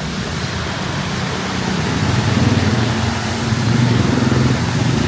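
A motor vehicle's engine running close by, growing louder about two seconds in, over a steady hiss of street noise.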